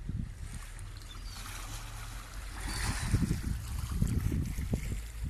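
Seaside ambience: wind rumbling and buffeting on the microphone, with a wave washing in on the shore about halfway through.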